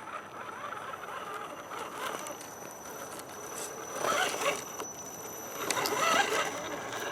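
Axial SCX10 RC scale crawler driving down a rough trail slope: a steady high whine from its small electric drive under the scrape and crunch of the tyres over dirt and rocks, which grows louder twice, about four and six seconds in.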